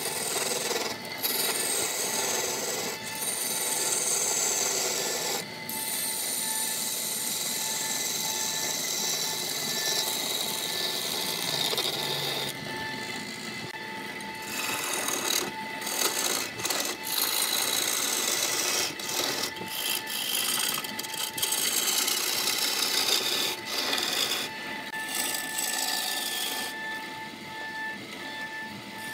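A wood lathe turning a wooden vase blank, a hand-held turning tool cutting and scraping the spinning wood in long passes broken by short pauses, over a steady whine from the lathe's electric motor. The cutting drops away near the end while the motor keeps running.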